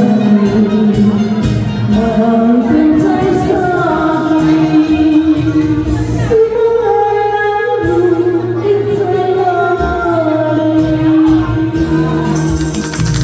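A person singing a slow song into a microphone over a karaoke backing track. A tambourine starts shaking in rhythm about a second before the end.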